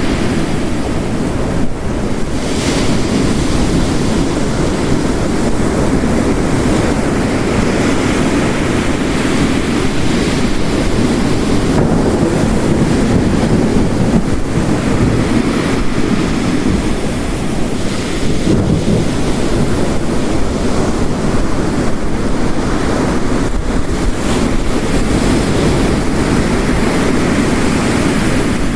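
Ocean surf crashing, layered with steady heavy rain: a dense, unbroken wash of water noise.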